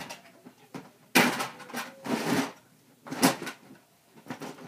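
Someone rummaging through a container of toy figures: three short bursts of clatter and rustling.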